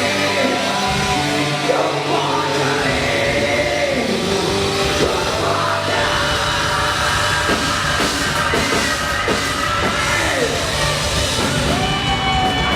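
Overdriven electric guitar playing a lead line with string bends, slides and vibrato over a rock backing track with drums.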